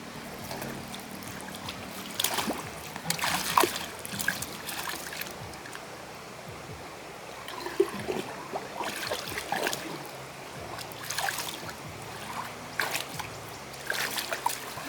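Water splashing and dribbling in irregular bursts, several clusters of short splashes with quieter gaps between them.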